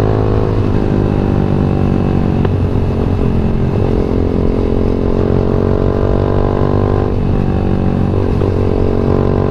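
Yamaha MX King 150's single-cylinder four-stroke engine running under way on the road, its pitch dipping and climbing again twice, about three and a half and seven seconds in.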